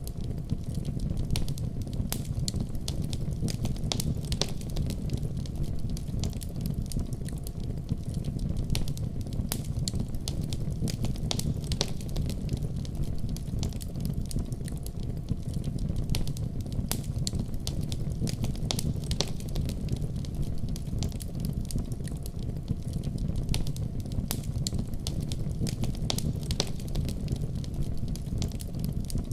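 Wood fire in a fireplace crackling, with frequent small irregular pops over a steady low rumble.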